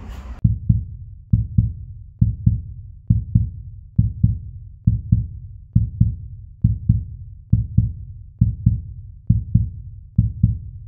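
Heartbeat sound effect: paired low thumps, lub-dub, repeating evenly about once a second, about a dozen times.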